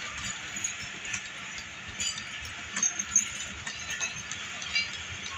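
Passenger train coaches rolling slowly past, with the wheels clacking unevenly over the rail joints and many short metallic clinks and squeaks.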